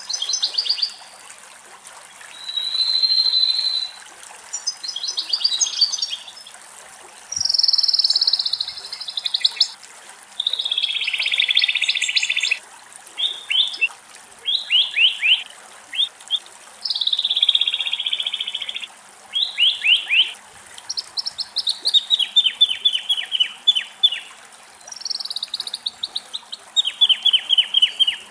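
Common nightingale singing: about a dozen short, varied phrases separated by brief pauses. Some phrases are buzzy, others are quick runs of repeated notes.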